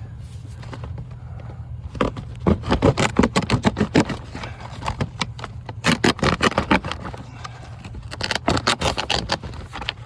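Bursts of rapid scraping and rustling from a person crawling and shifting over the crawl-space floor, over a steady low hum. The scraping comes in three spells: about two seconds in, about six seconds in, and near the end.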